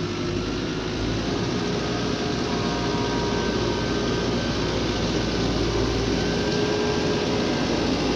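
An engine running steadily, with a faint held whine over the noise.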